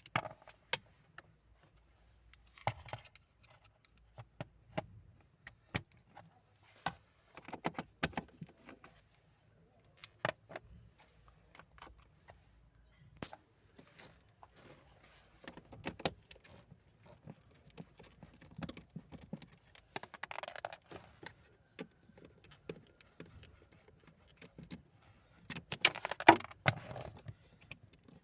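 Scattered clicks, light metal clinks and knocks of hand tools and plastic trim being worked while the heater blower motor resistor is unscrewed and unplugged, with a busier, louder patch of rattling near the end.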